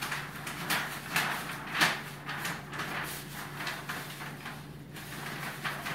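Irregular rustling and sliding scrapes, about two a second, from handling and working at a bird cage during cleaning, over a steady low hum.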